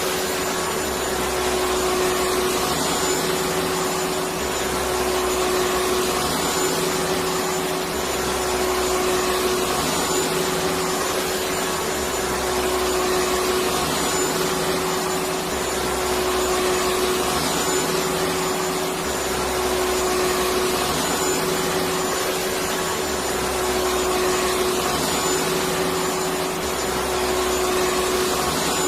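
Electric vacuum cleaner running steadily: an even rushing noise with a constant motor hum, and a low pattern repeating every couple of seconds, as in a looped recording.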